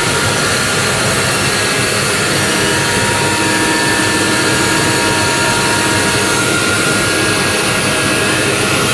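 Asphalt paver's diesel engine running steadily, a loud even machine noise with a faint held whine.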